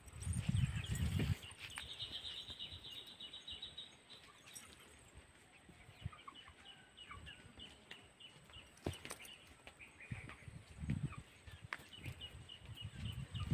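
Faint bird chirping, with a rapid chirping trill about two seconds in and scattered single chirps after it. Low rumbling bumps come near the start and again near the end.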